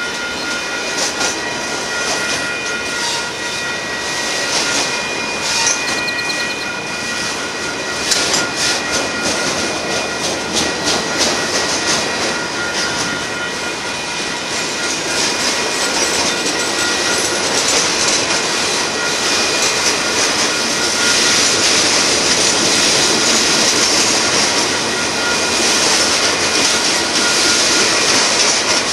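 Freight train's boxcars rolling past close by, with wheels clicking rapidly over rail joints and a steady high-pitched squeal over the rumble. The hiss grows stronger in the second half.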